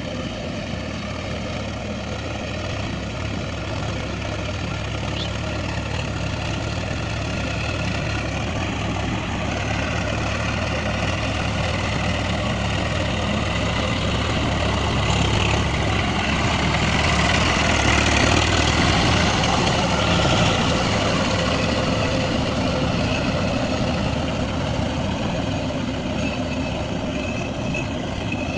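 Swaraj farm tractor's diesel engine running steadily, growing louder to a peak about two-thirds of the way through and then easing off.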